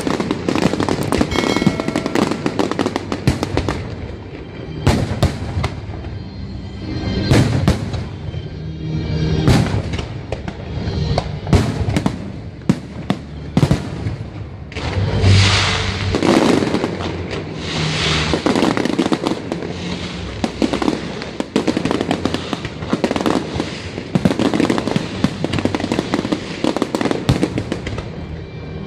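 Aerial display fireworks shells bursting in a rapid, dense barrage of sharp reports and crackle, with a louder cluster about halfway through.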